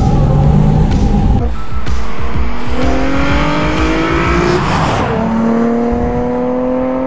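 Nissan 350Z's 3.5-litre V6 accelerating hard, its note climbing steadily in pitch as it revs. About five seconds in there is a brief rush as the car goes past, and then the note climbs again as it pulls away.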